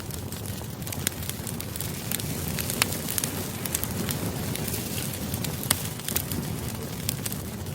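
Campfire burning: a steady low rush of flames with frequent sharp crackles and pops of wood.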